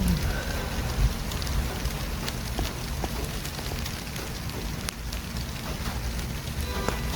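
Steady city street traffic noise: a low rumble of passing vehicles under an even hiss, with a few faint clicks.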